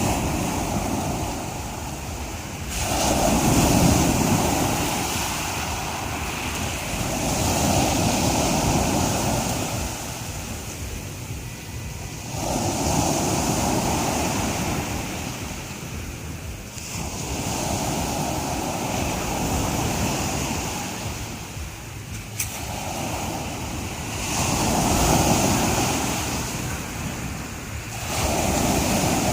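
Black Sea waves breaking on the shore, a rushing surge that swells and falls back about every four to six seconds, six times.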